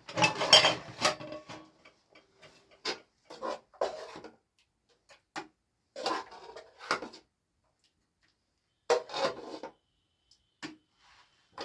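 Intermittent clatter and scraping of hard objects being handled, in about six short bursts with silent gaps between them, the loudest in the first second and a half.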